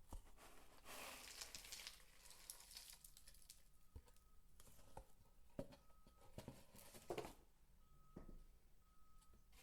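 Soap shavings being crumbled and handled: soft, brief rustling crunches with a few light taps between them.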